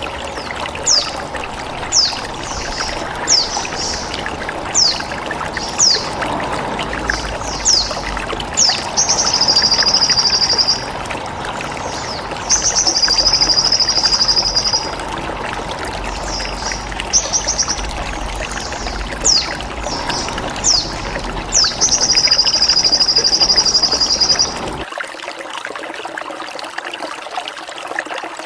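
Sogon bird song of quick, sharp, downward-sweeping chirps repeated again and again, broken three times by high buzzing trills about two seconds long, over steadily trickling water.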